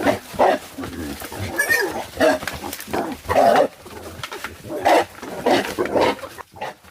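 Wild boar grunting in a string of short, loud, irregular calls.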